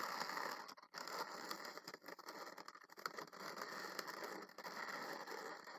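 Twisted latex balloons rubbing and rustling as they are handled and pushed into place, with small clicks, dipping briefly about a second in.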